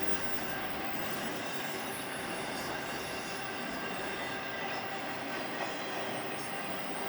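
Freight train cars rolling past steadily on the rails, a continuous rumble with wheels squealing in thin, steady high tones.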